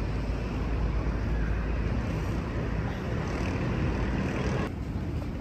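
City street traffic noise: a steady low rumble of passing motor vehicles, cutting off abruptly near the end.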